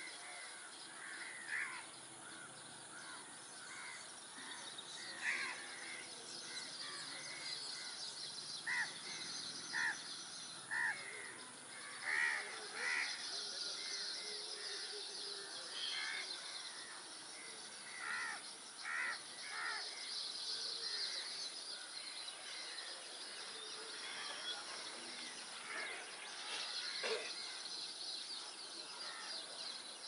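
Outdoor wetland ambience with birds calling: short, harsh, separate calls that come in loose clusters, thickest through the middle, over a steady high hiss. One sharp click sounds near the end.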